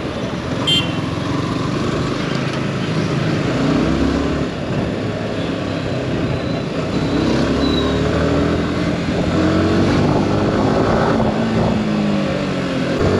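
Yamaha R15 V4's 155 cc single-cylinder engine on its stock exhaust, heard while riding: it pulls, eases off and pulls again, its pitch rising and falling several times, over a steady rush of wind noise.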